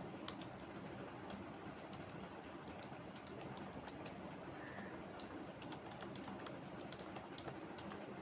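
Computer keyboard typing: irregular, spaced-out keystroke clicks over a steady low background hum.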